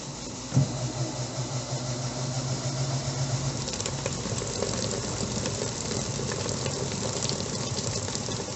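Electrolux LTE09 top-loading washing machine's motor kicking in with a clunk about half a second in, then humming steadily as the tub or agitator turns, with a hiss of water over it.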